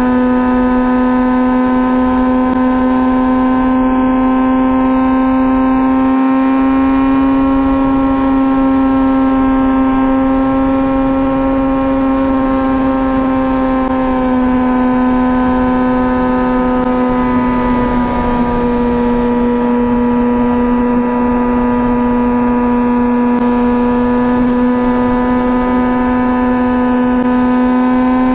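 2004 Honda CBR1000RR Fireblade's inline-four engine through an aftermarket Jardine titanium exhaust, running at a steady engine speed under way. The pitch holds level, dips slightly about two-thirds of the way through, then settles again.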